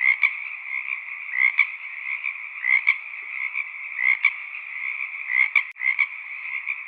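Frog chorus: a dense, steady calling with louder calls standing out about every second and a half. There is a brief cut-out in the sound about three-quarters of the way through.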